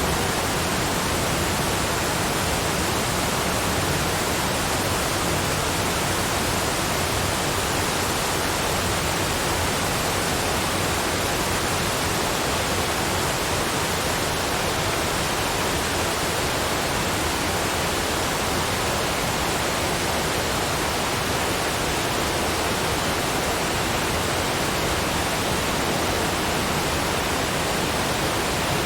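Steady waterfall white noise: an even, unbroken rush of falling water spread across low and high pitches, with no change.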